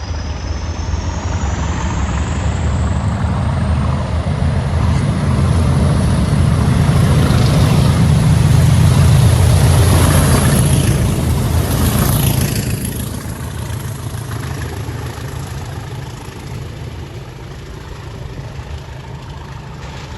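Diesel locomotive passing with a train, its engine working steadily. It grows louder to a peak about ten seconds in, then fades as it goes by. A high whistle rises in pitch over the first few seconds.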